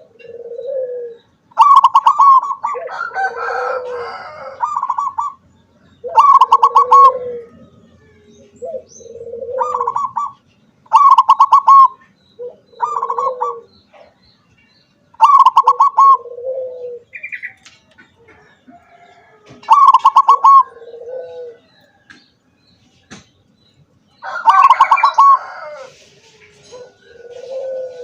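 Zebra dove (perkutut) singing, repeating its phrase every few seconds: a quick rattling run of higher notes followed by a lower, drawn-out coo.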